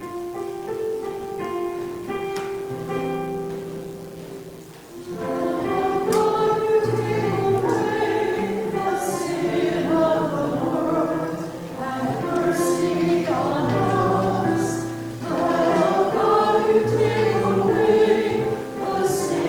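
Piano plays a short introduction of held chords. About five seconds in, the congregation joins and sings a hymn with the piano accompanying.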